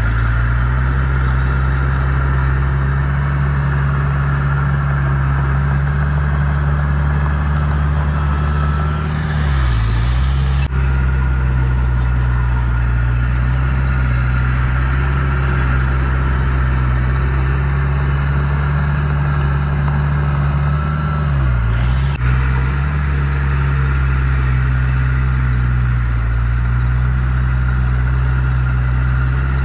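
Heavy diesel engine of an earthmoving machine running steadily under load. Its pitch sags and recovers twice, each time followed by a short click.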